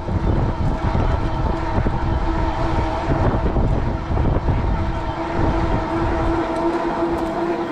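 Wind buffeting the microphone in gusts over the steady, whining hum of a fat-tire e-bike riding at speed. The hum grows stronger about halfway through.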